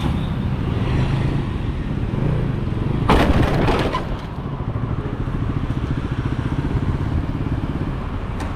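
Motorcycle engine running steadily, with a loud crash lasting about a second, three seconds in: a road collision.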